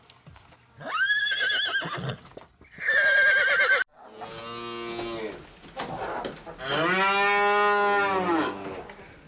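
Two high horse whinnies with a fast waver, the second cut off abruptly, followed by a cow mooing twice, the second moo long and drawn out.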